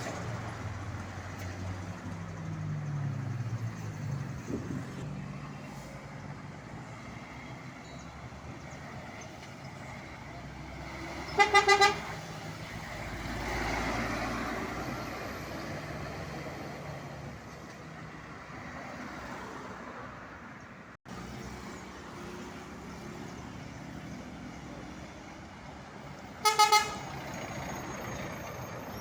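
Truck horn honked twice, each a short blast of under a second on one steady pitch, about fifteen seconds apart, over running truck engines and traffic noise.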